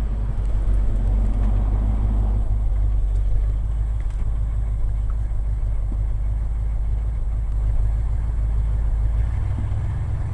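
1980 Ford F100's 302 small-block V8 idling steadily, heard from inside the cab as a low, even rumble, with a slight change in its note near the end.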